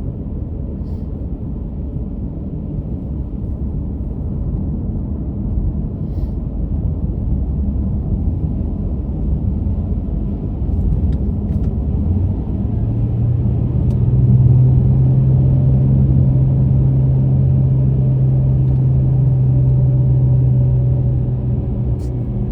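Car driving along a road: a steady low rumble of tyres and engine. About halfway through, a steady low drone comes in and the rumble gets a little louder.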